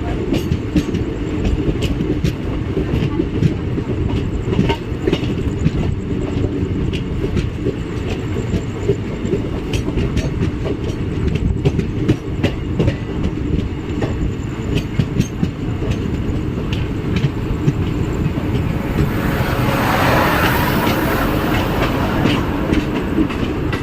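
A moving passenger train: a steady low rumble with the clickety-clack of wheels over rail joints. A louder hiss rises and fades about 19 to 22 seconds in.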